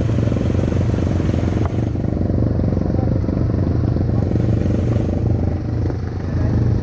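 ATV engine running steadily under way, easing off slightly about five seconds in.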